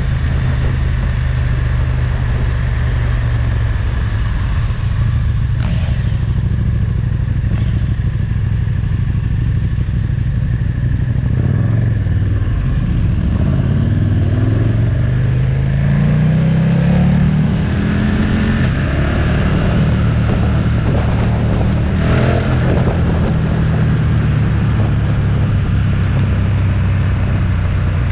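Motorcycle engine running under way with a steady noise of wind and road; about halfway through the engine note climbs as the bike accelerates, dips briefly, then climbs again.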